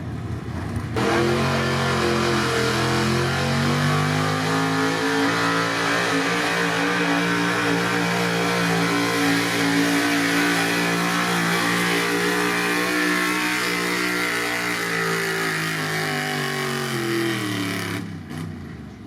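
Pro street gas pickup truck's engine at full throttle on a sled pull, one loud sustained run of about seventeen seconds that starts suddenly, holds high revs with the pitch sagging slightly under load, then drops in pitch and cuts off as the throttle is released.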